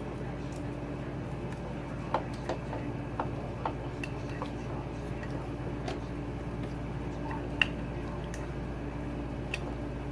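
Scattered light metallic clicks and taps as a Honda CRF450R cylinder head is worked down onto the cylinder and fed over the timing chain guides, one sharper tap about three quarters of the way through. A steady low hum runs underneath.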